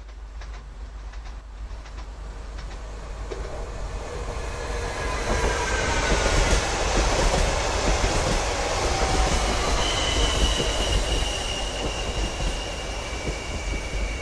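Two coupled Stadler FLIRT electric multiple units passing at speed. Wheel and rail noise swells over the first several seconds, with falling whining tones as the train nears. A high, steady whine joins in from about ten seconds in as the cars go by.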